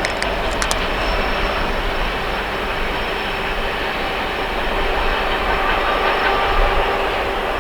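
Coal train rolling past on the rails: a steady rumble of wheels and cars with a clickety-clack.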